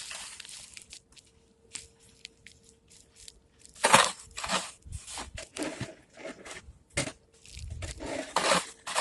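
Snow crunching in irregular bursts, the loudest about four seconds in and again near the end, with a faint steady hum underneath.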